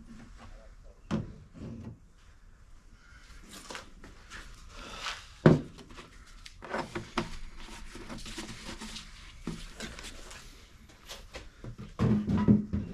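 Scattered knocks and clatter of objects being handled and set down, with one sharp knock about five and a half seconds in and busier clatter near the end.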